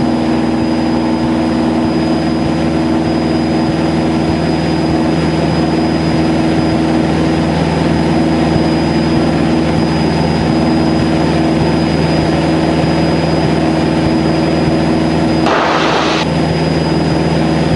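Cessna 152's four-cylinder Lycoming O-235 engine and propeller droning steadily in cruise, heard from inside the cabin, with a thin high whine over it. A short burst of hiss comes about three-quarters of the way through.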